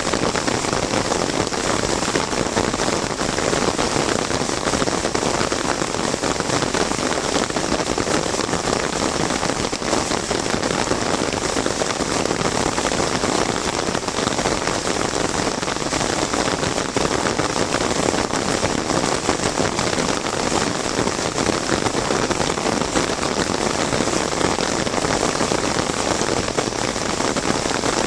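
Heavy monsoon rain drumming on an umbrella, a dense, steady hiss of drops.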